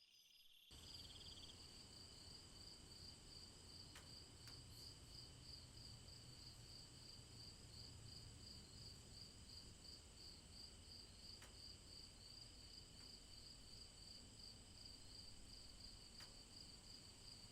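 Faint night-time insect chorus of crickets, with a steady high pulsing chirp repeating a few times a second over constant high trills and a low rumble beneath. The chorus switches abruptly to a different mix just under a second in.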